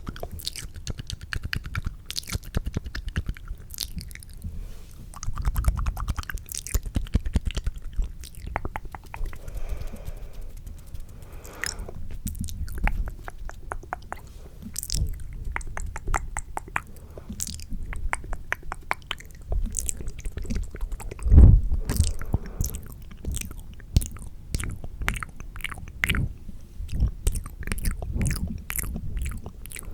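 Fast, aggressive ASMR mouth sounds close to the microphone: a dense, irregular run of wet clicks, smacks and pops from lips and tongue, with one louder low thump about two-thirds of the way through.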